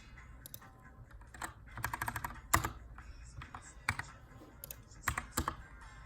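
Keychron K2 mechanical keyboard with brown switches in an aluminum frame being typed on: scattered keystrokes, a quick run of keys about two seconds in, and one sharper, louder click right after it.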